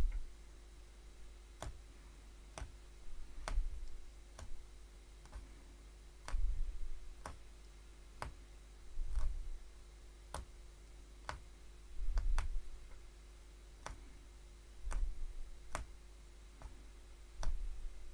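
Punch needle stabbing repeatedly through the backing fabric, a sharp click at each punch about once a second, with dull low thuds every few seconds.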